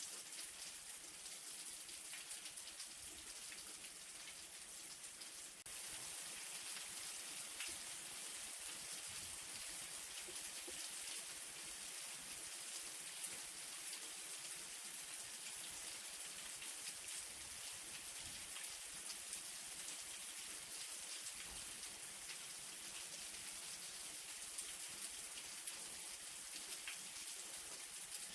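Light rain falling steadily: a dense hiss of small drops with single drop ticks scattered through it. It gets slightly louder about six seconds in.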